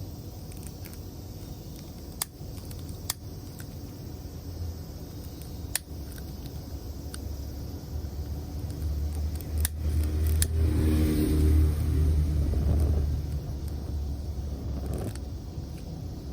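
A passing vehicle: a low rumble swells about nine seconds in and fades a few seconds later, over a steady low hum, with a few sharp clicks scattered through.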